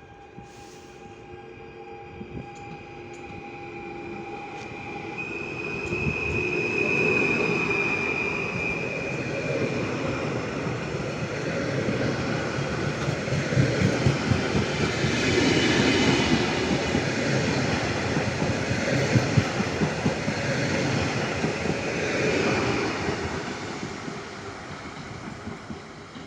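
A train passing by on the rails: the noise builds over about six seconds, stays loud with sharp clicks of wheels over rail joints through the middle, then fades near the end. A few steady high tones ring over the first five seconds as it approaches.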